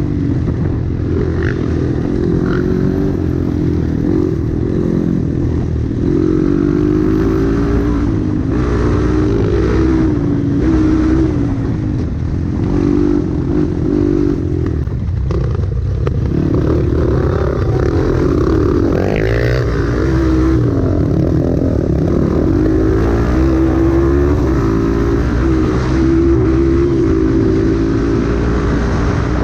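Trail motorcycle engine running under way, its pitch rising and falling as the throttle is worked, with clattering and rattling over the rough ground.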